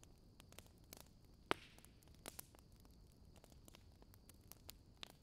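Near silence with faint hiss and a few soft clicks of a knife and cake server touching the plate as a layered snack cake is cut and a slice lifted out; the sharpest click comes about one and a half seconds in.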